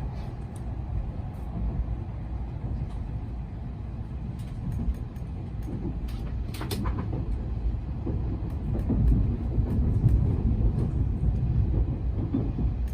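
Low, steady rumble of an N700S Shinkansen heard from inside the passenger cabin, with a brief sharp clack about six and a half seconds in.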